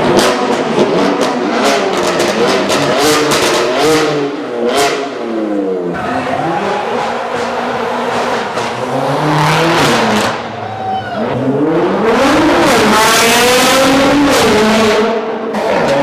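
Supercar engine revved hard again and again, its pitch sweeping up and falling back, with sharp pops and crackles through the first five seconds. Near the end it climbs to a high pitch, holds for a few seconds, then drops.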